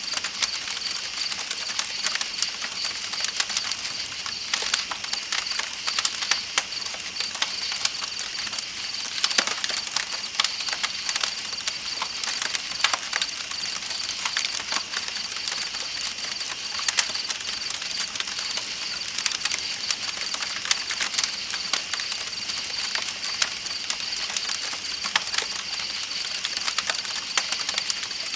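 Campfire crackling with frequent sharp pops, over a steady high chirring of night insects and the even rush of a river.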